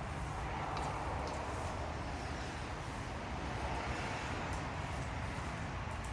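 Steady low background noise with some hiss, with no distinct knocks or tones.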